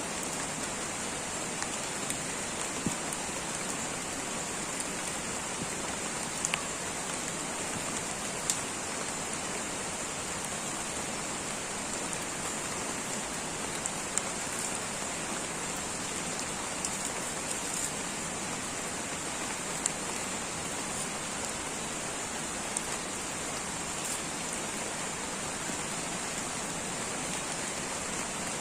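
Light rain falling steadily on rainforest foliage, with scattered louder single drops and a steady high-pitched hiss over the patter.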